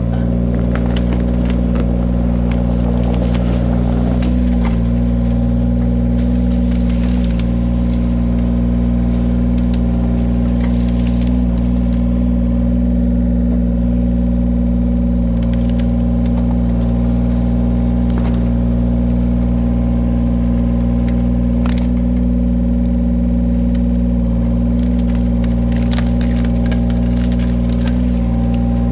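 The engine of a firewood-splitting machine running steadily under a constant hum, with scattered sharp cracks and crackles of wood splitting under the cutter.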